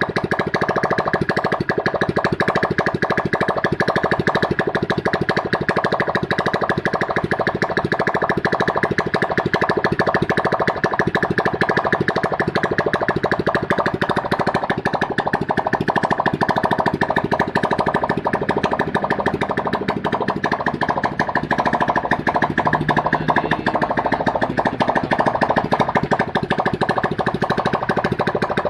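Freshly overhauled engine running steadily at idle, being test-run after the rebuild.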